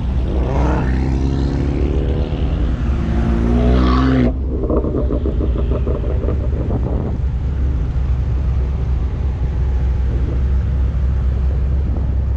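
Car engines running as a line of cars rolls slowly down a race track: a steady low drone throughout, with a nearby engine note rising and falling over the first four seconds before breaking off sharply. A fast, even pulsing engine note follows for about three seconds.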